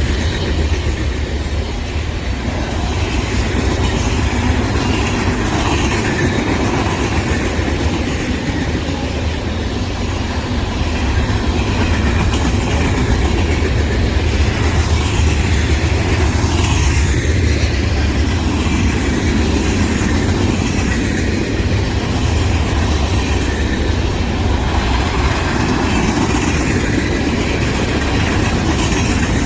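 Freight train cars rolling past on the rails: a loud, steady rumble of wheels on track that holds for the whole stretch.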